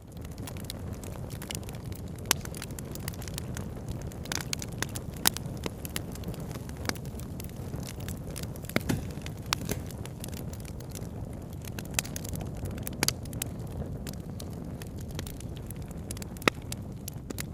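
Campfire crackling, with irregular sharp pops and snaps over a steady low rushing hiss; the loudest snap comes near the end.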